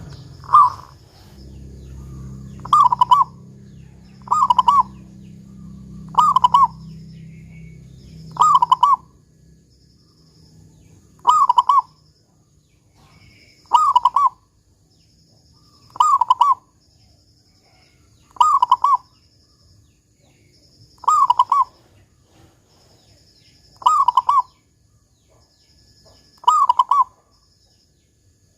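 Local zebra dove (perkutut) cooing, a short phrase ending in a deep 'kung' note, repeated about every two and a half seconds, twelve times. A low hum runs under the calls and stops about nine seconds in.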